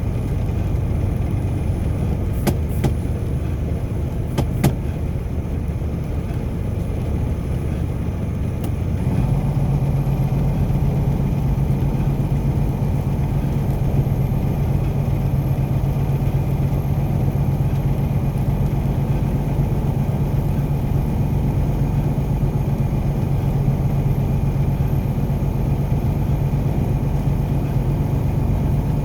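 Car driving noise: the engine and road rumble run steadily, with a few sharp clicks about two to five seconds in. At about nine seconds a steady low hum grows louder and holds.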